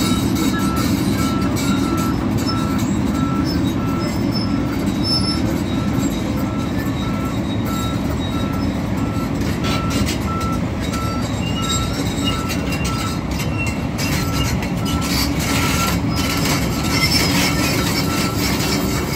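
A heavy tracked excavator's diesel engine runs steadily while its travel alarm beeps at an even pace, about one and a half beeps a second, as the machine is driven off a lowboy trailer. Scattered metallic knocks come in from about halfway through.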